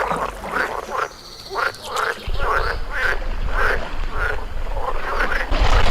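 Frogs croaking in a rapid run of short calls, about three a second. Wind rumbles on the microphone from about two seconds in.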